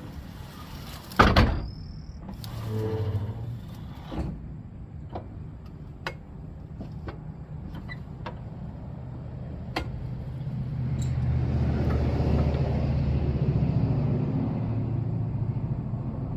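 Knocks and footfalls on a boat's hull as someone climbs aboard: a loud thump about a second in, then scattered knocks and clicks. A steady low hum runs underneath, and a rushing noise swells and fades near the end.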